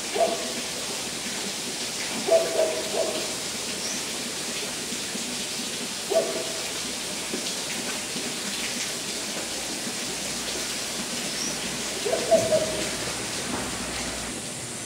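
A bird's low hooting calls, short notes coming in brief groups every few seconds over a steady background hiss.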